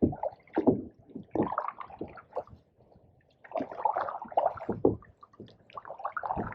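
Canoe paddle strokes in pond water: gurgles, splashes and drips coming in uneven bursts every second or two.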